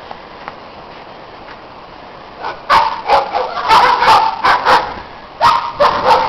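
Dogs barking in a rapid run of short, sharp barks that starts about two and a half seconds in, pauses briefly, then resumes near the end.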